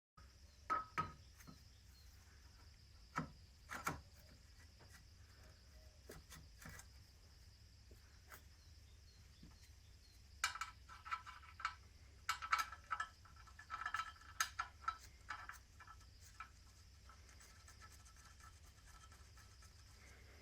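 Scattered metallic clinks and knocks of hand tools and engine parts being handled. A few sharp knocks come in the first four seconds, and a cluster of ringing clinks about ten to fifteen seconds in, over a low steady hum.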